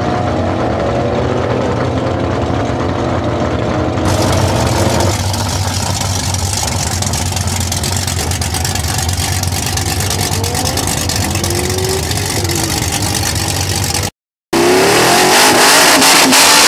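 Drag car engines at a drag strip: one car accelerating away with its revs climbing and dropping back through the gears. Then a second car's engine runs steadily with a few light blips. After a brief break, that engine revs hard with its pitch rising.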